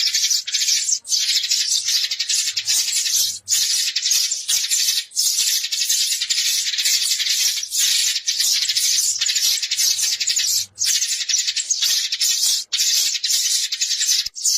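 Sparrows chirping in a dense, unbroken high-pitched chatter, a flock-gathering call used as a lure recording.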